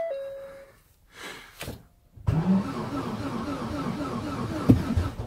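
A short dashboard warning chime. About two seconds later the Ford Focus Mk3 1.6 engine is turned over from a −40 °C cold start, labouring with a regular pulsing rhythm.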